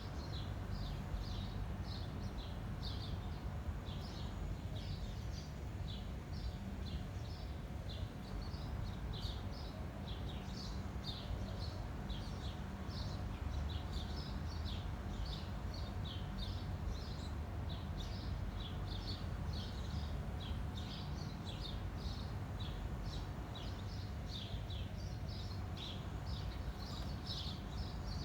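Small birds chirping continuously in quick, short high notes, several a second, over a steady low rumble of wind and a faint steady hum.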